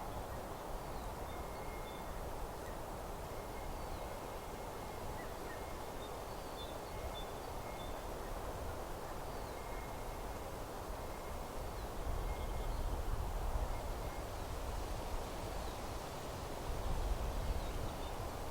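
Meadow ambience: a steady rustling hiss with faint, thin, repeated bird calls. A low wind rumble on the microphone comes in about twelve seconds in and again near the end.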